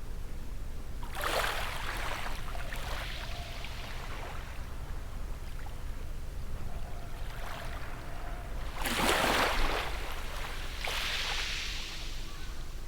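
Small sea waves washing onto the shore: one surge about a second in and a louder one about nine seconds in, each followed by a softer backwash. A steady low rumble lies underneath.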